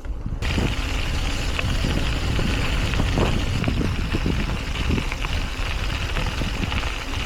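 Wind buffeting the microphone with tyre and road noise while riding a bicycle: a loud, steady rush with low rumbling gusts that sets in suddenly about half a second in.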